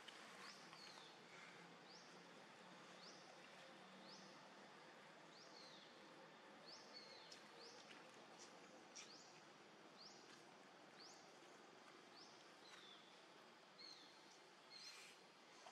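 Faint outdoor ambience with a bird repeatedly giving short, high, upward-sweeping chirps, roughly one a second.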